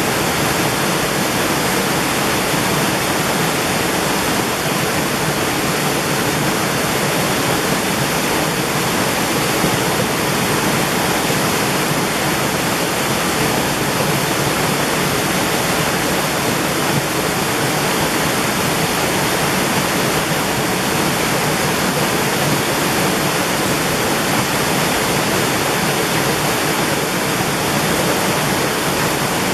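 Mountain stream rushing over rocks, a steady, full wash of water noise with no breaks.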